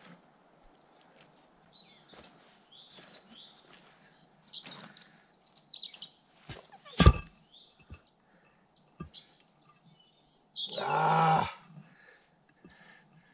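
Small birds chirping in short, gliding calls. About seven seconds in comes one sharp knock, the loudest sound. Near the end there is a harsh pitched sound lasting about a second.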